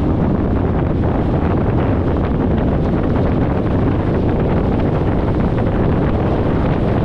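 Steady wind rush on the microphone of a camera mounted outside a 1994 VW Gol driving at highway speed, with low road noise underneath.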